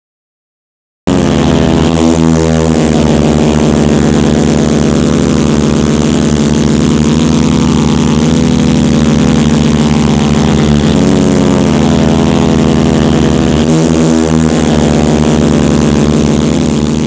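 Monster truck engines running loud and steady, starting abruptly about a second in, with small shifts in pitch and a fade beginning near the end.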